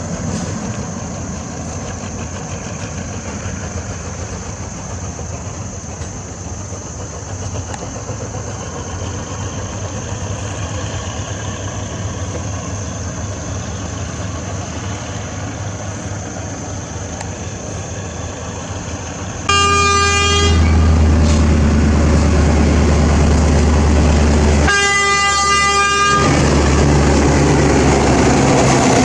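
A train's diesel engine rumbles steadily, then two horn blasts of about a second each sound some five seconds apart in the last third, and the engine rumble is louder from the first blast on.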